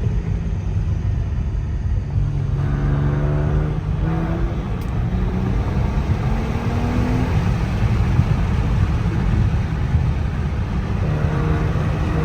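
A car driving with a heavy low exhaust rumble. The engine note rises as it speeds up a few seconds in and again near the end. The funny exhaust sound comes from deer remains caught up under the exhaust after running over roadkill.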